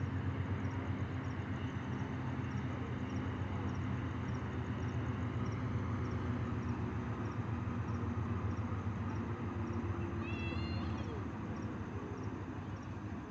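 Diesel locomotive of a passing train running with a steady low engine rumble that eases a little near the end. A faint insect chirps regularly in the background, and a brief high wavering call sounds about ten seconds in.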